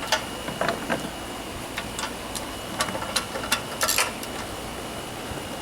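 Irregular sharp clicks and clinks of hand tools and small metal engine parts being handled and fitted on a lawnmower engine, about a dozen of them with a quick cluster near four seconds in.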